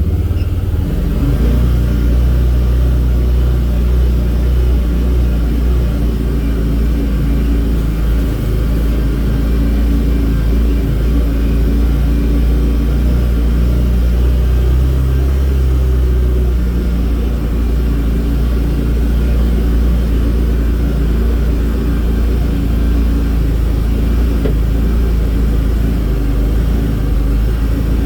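A vehicle's engine running steadily at a low, even drone while driving along a property trail.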